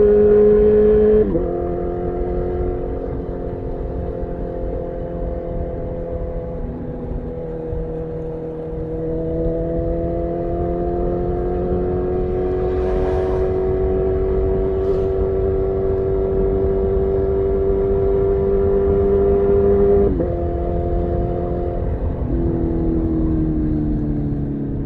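2018 Honda CB1000R's inline-four engine through a full aftermarket Black Widow exhaust, running under way. The engine note drops sharply on upshifts about a second in and again near twenty seconds, with revs climbing slowly in between and easing off near the end.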